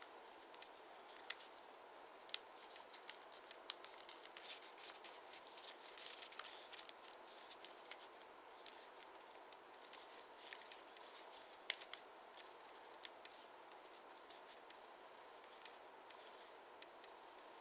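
Origami paper being handled and folded: scattered crisp clicks and small crackles of creasing, a few sharper snaps, over a faint steady hiss.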